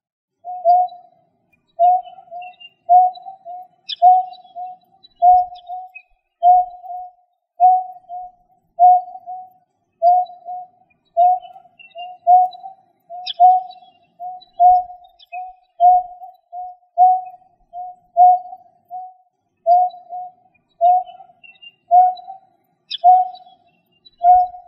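Greater painted-snipe (nhát hoa) calling as a bird lure: a long, even series of short, low, hollow hooting notes, about one to two a second, some in pairs. Faint higher chirps from another bird come in three times.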